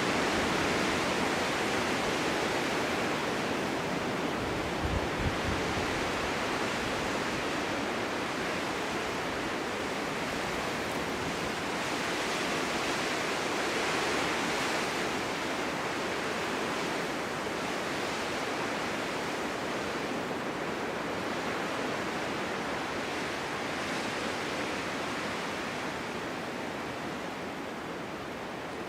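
Winter wind blowing steadily in a snowstorm, a continuous rushing that swells and eases in slow gusts, with a brief low buffet on the microphone about five seconds in.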